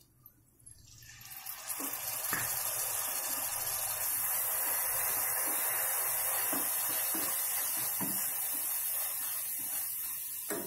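Chopped tomatoes sizzling in hot oil in a kadai. The sizzle builds up about a second in and then holds steady, with a few light knocks of a wooden spatula stirring against the pan.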